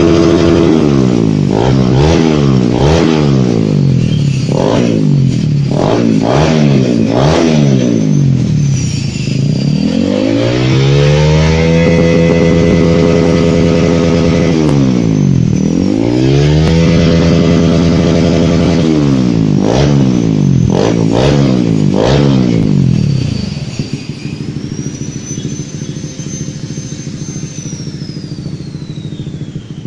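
Honda CBR150R K45G's single-cylinder engine through a Scorpion slip-on exhaust, revved in repeated quick blips and a couple of longer held revs. It then drops to a steady idle for the last several seconds.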